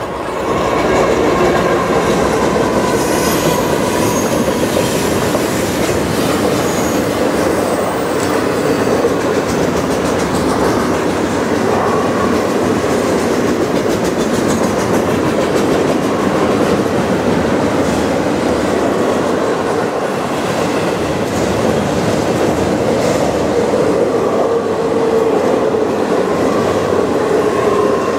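A CN intermodal freight train passing close by. The sound comes up loud about a second in as the lead GE ES44AC diesel locomotive draws level. After that comes the steady rolling of double-stack container well cars on the rails.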